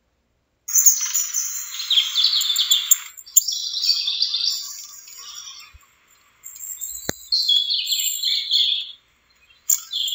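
Recorded birds chirping and twittering: clusters of high, fast calls with short breaks, starting just under a second in.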